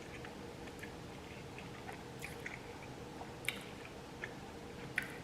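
A person chewing food with faint wet mouth clicks, a few sharper clicks about halfway and near the end.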